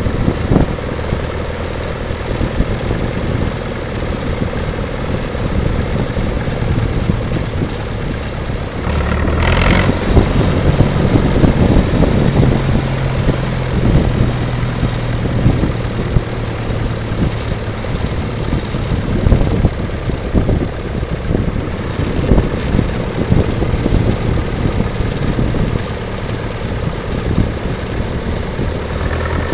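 Someca 40 tractor engine running while being driven. Its note picks up about ten seconds in, where a short hissing burst comes, and it settles lower again after about six seconds.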